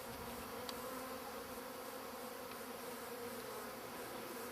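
Feral honey bees in flight around their hive, a steady buzzing hum.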